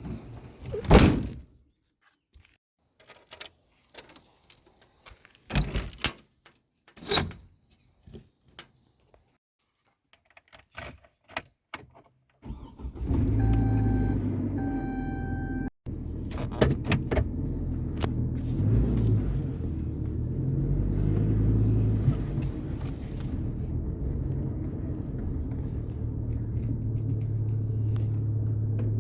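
Scattered knocks and keys jangling, then a pickup truck's engine starts a little under halfway through and runs steadily for the rest. A dashboard warning chime beeps twice just after the start.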